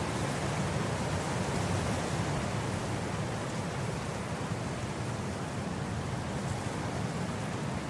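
Wind blowing steadily across grass: an even, unbroken rushing noise, heaviest in the low end.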